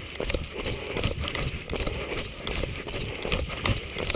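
A runner's footsteps on wet ground, a steady stride of about two to three steps a second, each step jolting the handheld camera.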